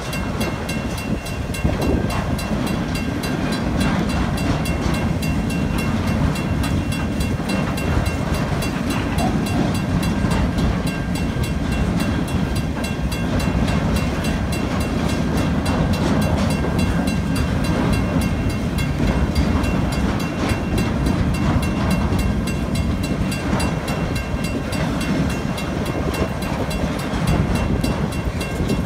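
CN freight train's cars, including TTX flatcars, rolling steadily through a level crossing: a continuous low rumble of steel wheels on rail, with faint steady high tones over it.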